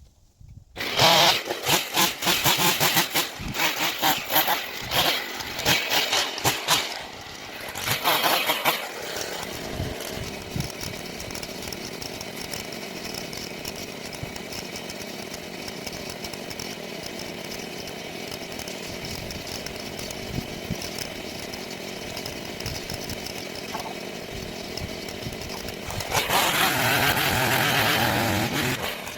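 Chainsaw engine starting about a second in and revving unevenly for several seconds. It then settles to a steady idle and revs up again near the end.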